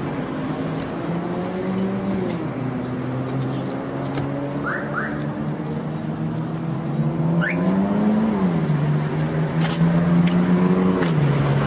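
A car engine running steadily, its pitch rising and then dropping quickly a few times, with a few light clicks.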